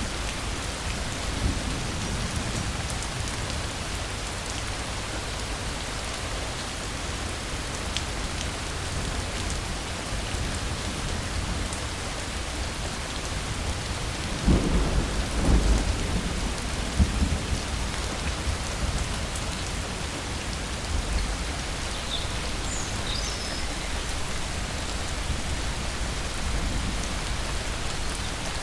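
Steady rain falling, with a low rumble of thunder about halfway through. A few faint high chirps from a bird come near the end.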